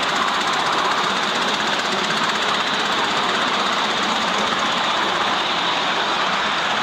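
Miniature ride-on railway train running, heard from aboard: steady wheel-and-rail running noise with mechanical clatter at an even level.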